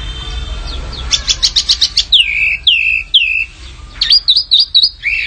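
Small songbird singing: a quick run of sharp chirps about a second in, then three downward-slurred whistles, then a rapid trill near the end. It is a masteran recording, played to set caged songbirds singing.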